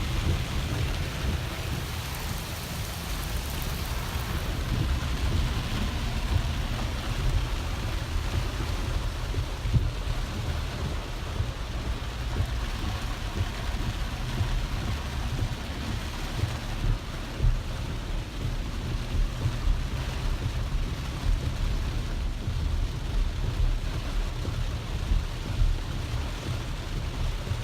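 Heavy rain pelting a moving car, heard from inside the cabin as a steady hiss over the low rumble of the car driving through the downpour.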